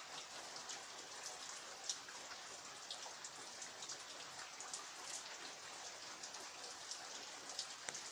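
Steady rain: an even hiss with many separate raindrops striking close by, a few louder than the rest.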